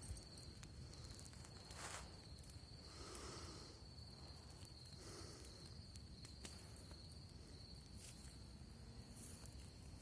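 A cricket singing one steady high note, faint, over sparse soft ticks and crackles from a campfire, with a few brief rustles.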